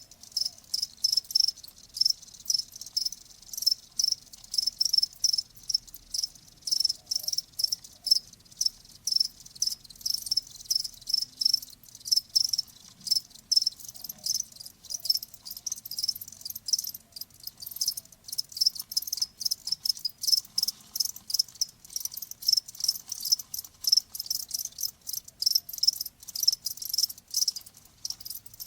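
Crickets chirping steadily, a rapid train of high-pitched pulses repeating several times a second.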